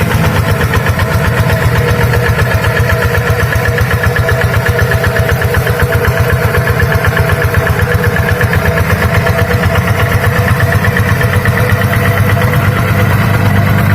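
Tractor engine running steadily with a rapid, even chugging, as used to plow a rice paddy.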